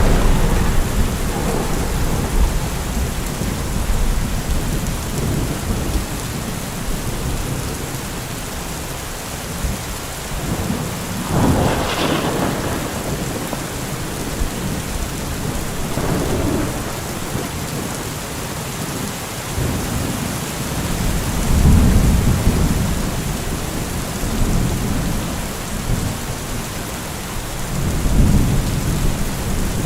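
Steady rain falling as a constant hiss, with rolling thunder: low rumbles swell and fade several times, and a brief louder surge comes about halfway through.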